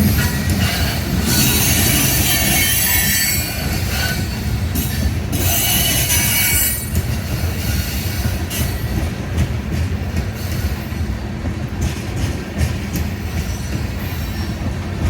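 Union Pacific coal train's cars rolling past on the rails: wheels squealing high in the first half, over a steady low rumble, then clicking over rail joints in the second half.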